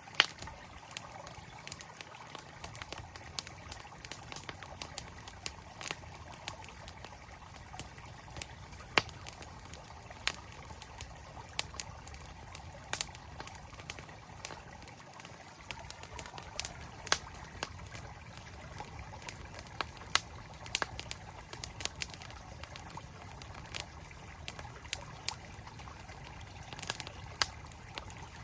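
Campfire crackling with sharp, irregular pops over the steady rush of a flowing mountain stream.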